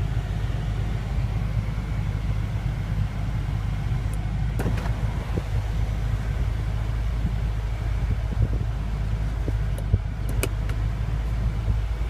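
BMW M5's twin-turbo V8 idling, heard from inside the cabin as a steady low drone, with a couple of light clicks around the middle and near the end.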